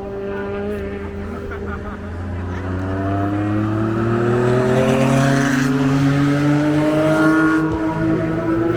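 A vehicle engine running, its pitch climbing slowly and steadily as it speeds up.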